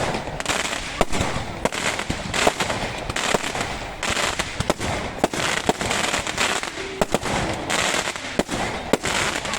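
Fireworks going off: an irregular, continuous series of sharp bangs and cracks over a steady crackle.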